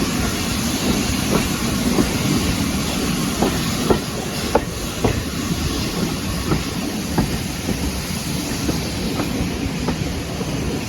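Train running along the track: a steady rumble with wheels clicking over rail joints at irregular intervals.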